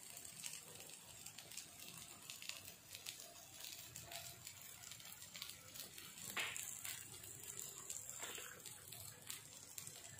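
Faint sizzling crackle of eggs, tomatoes and onions frying in coconut oil in a pan as the dish finishes cooking, a quiet scatter of small pops.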